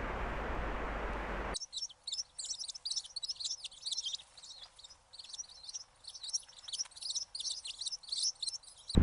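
Wind rushing on the microphone, then, about one and a half seconds in, a clean track of many small birds chirping and tweeting in quick, high, overlapping calls cuts in abruptly and cuts off just before the end.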